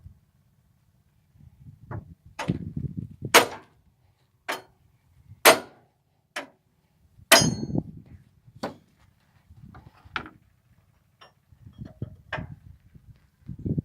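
A series of about eleven sharp knocks, irregularly spaced roughly a second apart, each with a short ringing tail, like blows on metal.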